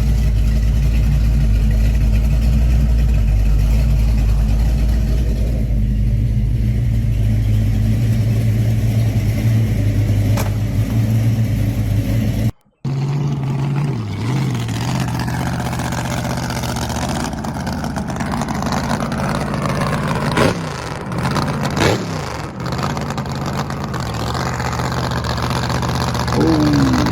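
Muscle car engine idling with a steady low rumble. After a cut about halfway through, engine sound resumes, with a few short revs that rise and fall in pitch.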